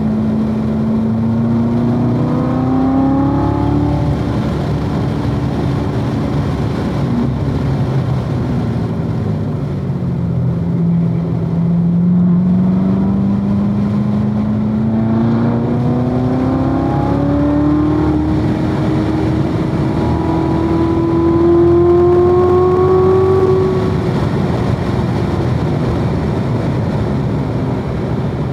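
2016 Corvette Z06's supercharged 6.2-litre V8 being driven hard on track. The engine note climbs for the first few seconds, falls away, then rises slowly in one long pull of about twelve seconds before the throttle comes off near the end.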